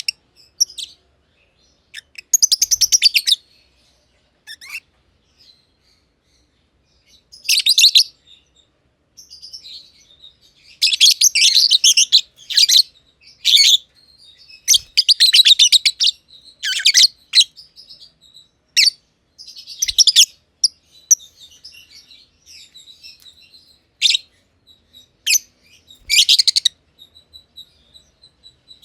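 Masked lovebirds (green personata) chirping in bursts of rapid, high chirps, each burst about a second long, with short pauses between and the busiest calling in the middle.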